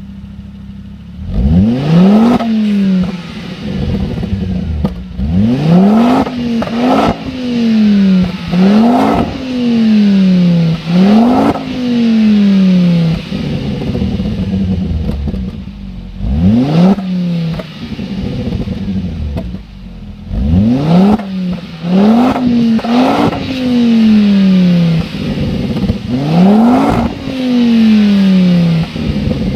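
Ford Focus ST engine with an aftermarket exhaust, free-revved in repeated blips: about ten sharp rises in revs, each falling slowly back toward idle, with a few sharp cracks from the exhaust.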